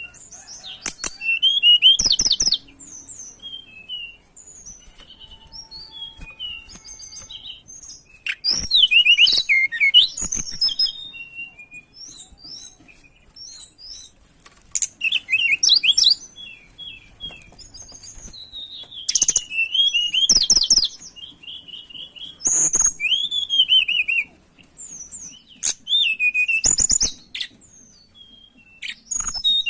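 Tledekan gunung songbird singing: bursts of high, fast chirping and twittering phrases every few seconds with short pauses between, used as a lure call to set other birds singing. A few sharp clicks come along with some of the phrases.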